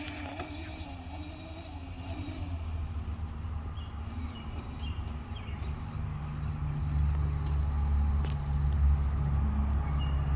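Small dirt bike engine running as the rider goes around the course, getting louder about two-thirds of the way through as the bike comes closer.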